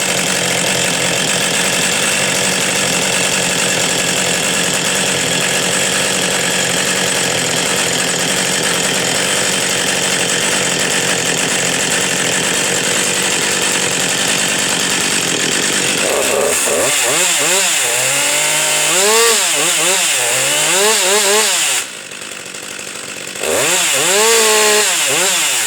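Husqvarna 562 XP two-stroke chainsaw running steadily at high revs for about sixteen seconds. It is then revved up and down repeatedly in quick blips. Near the end it drops to a quieter run for a second or so before being revved again.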